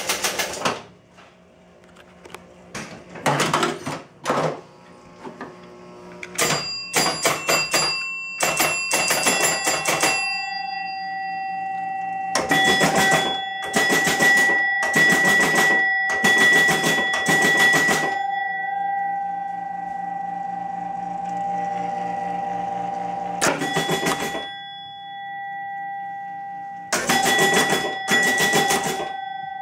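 Williams River Boat electromechanical pinball machine running through its score counters, which reset and add points. The relays and score reels clatter in repeated bursts of rapid clicking, and chime-like ringing tones hang on between and under the bursts.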